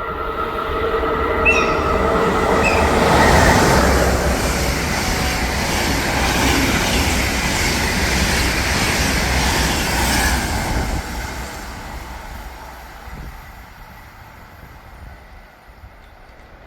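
Train horn sounding a held chord of several tones for the first two to three seconds, then the passing train's wheels and rails rumbling loudly and fading away over the last several seconds.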